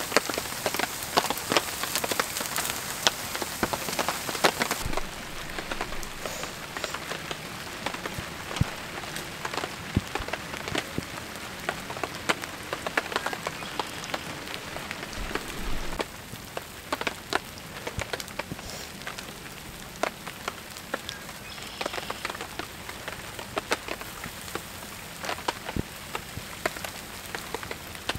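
Rain falling on a tarp shelter, with many scattered sharp drop hits. The sound gets quieter a few seconds in and again about halfway through.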